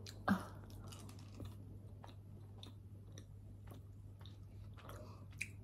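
A person chewing a jelly bean: faint, irregular mouth clicks and soft squelches every half second or so, over a low steady hum.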